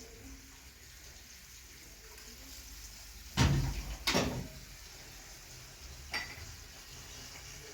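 Two loud knocks of hard objects about a second apart, each ringing briefly, then a lighter click a couple of seconds later.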